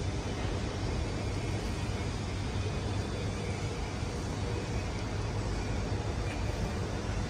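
Beer keg washing and CIP cleaning machine running: a steady mechanical noise over a low hum, with no change in level.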